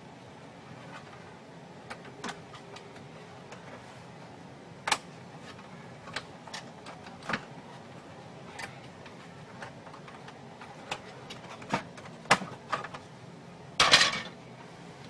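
Scattered sharp clicks and knocks of small hard parts being handled during a printer repair, irregularly spaced, with a louder clatter near the end.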